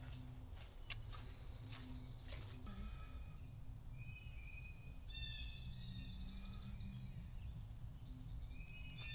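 Several wild birds singing short whistled phrases, with a fast trill about five seconds in, over a low steady outdoor rumble.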